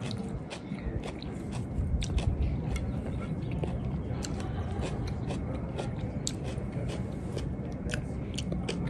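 Close-up chewing of a mouthful of vegetable salad, with short sharp clicks of a metal fork against a glass dish as more is picked up.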